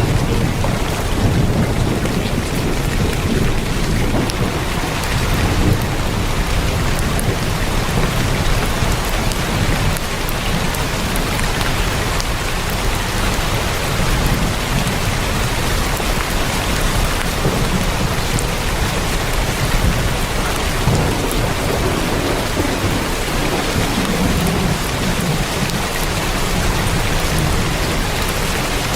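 Heavy rain drumming steadily on a tin roof, a dense even hiss of drops with a low rumble underneath that swells and eases.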